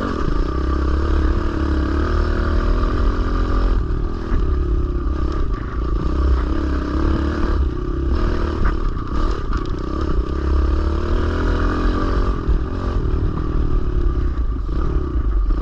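Kawasaki KLX110L pit bike's small air-cooled four-stroke single-cylinder engine running while being ridden, its revs rising and falling continuously, over a steady low rumble of wind on the microphone.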